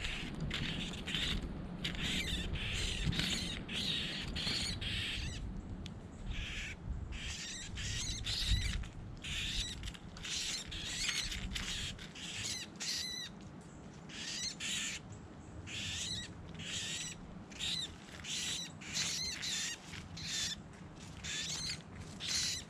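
A small bird giving short, harsh calls over and over, about one or two a second. A low rumble underneath fades out about halfway through.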